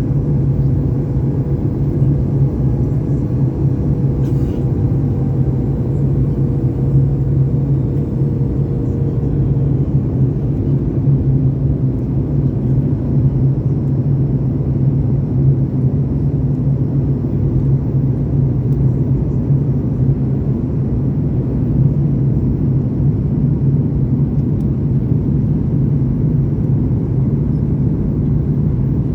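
Cabin noise inside a Boeing 737 MAX 8 on approach: a steady low rumble of its LEAP-1B jet engines and airflow, with a faint tone that slowly drops in pitch over the first ten seconds.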